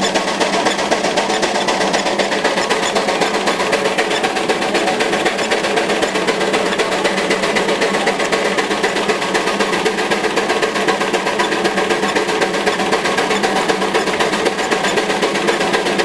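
Veneer lathe and its drive machinery running, with a steady, fast, even mechanical rattle and hum.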